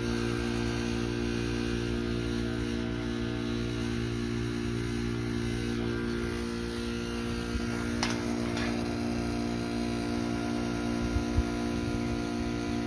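Trane XR13 heat pump outdoor unit running in defrost: a steady compressor hum with several constant tones. A brief click about eight seconds in.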